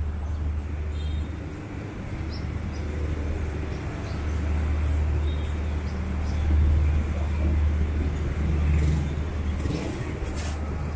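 Street traffic: a motor vehicle's low engine rumble close by, growing louder from about a third of the way in.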